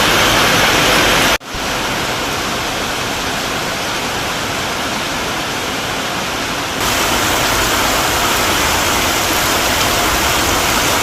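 Heavy rain pouring down, a steady loud hiss. It cuts out for an instant about a second and a half in, comes back a little softer, and gets louder again about seven seconds in.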